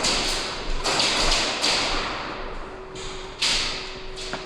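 Airsoft guns firing in short bursts of rapid shots, three or four bursts with the loudest around a second in. A faint steady hum comes in about halfway through.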